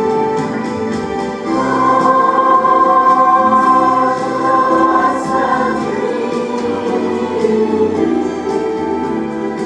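A choir singing a song with musical backing.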